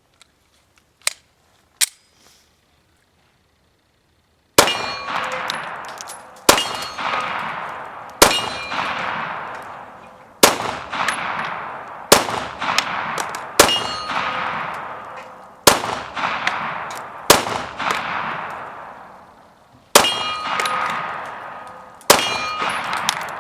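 FMK 9C1 9mm pistol firing Remington UMC 115-grain jacketed hollow points at a slow, steady pace: about ten shots, each followed by a long ringing decay, spaced about one and a half to two and a half seconds apart. Before the first shot there are a couple of light clicks of gun handling.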